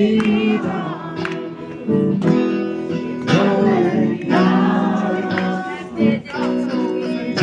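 Singing accompanied by a strummed acoustic guitar.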